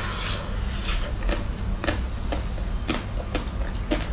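Close-up biting and chewing of the chocolate shell of a chocolate-coated ice cream bar: a crisp crackle as the coating breaks, then crunches about every half second. A steady low hum runs underneath.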